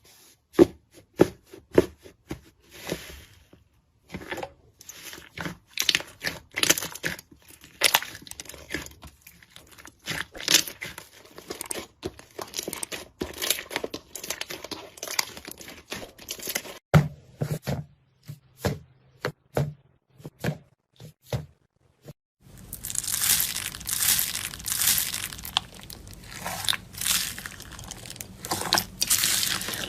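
Hands playing with slime: a rapid run of sharp pops and crackles. About 22 seconds in it turns to a denser, louder, continuous crackling.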